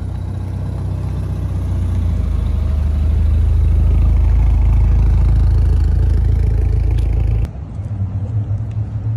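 Mitsubishi Lancer Evolution VII's turbocharged four-cylinder engine giving a low rumble as the car rolls slowly past close by, growing louder to a peak, then cut off suddenly near the end.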